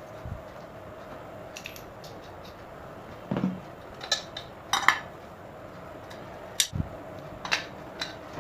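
Metal parts and hand tools clinking and knocking irregularly, about eight sharp clinks and a few duller knocks, the loudest about five seconds in, over a steady faint hum.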